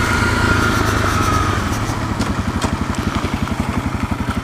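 Single-cylinder dual-sport motorcycle engine coming off the throttle: a steady drone with a falling whine, then from about two seconds in a slow, even beat of roughly ten to twelve pulses a second as the bike slows to low revs.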